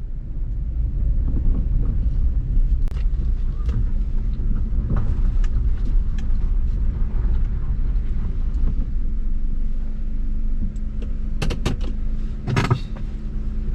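Car driving slowly, heard from inside the cabin: a steady low rumble of engine and tyres, with scattered small clicks and a cluster of knocks and rattles about eleven to thirteen seconds in.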